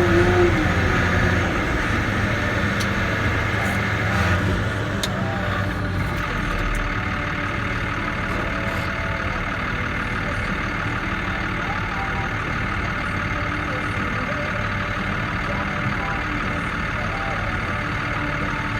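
Caterpillar D6K bulldozer's diesel engine running steadily, a little louder in the first few seconds and then settling to an even level.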